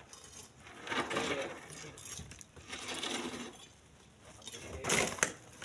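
Split stones knocking and scraping as they are handled and loaded, in three uneven bursts about a second, three seconds and five seconds in.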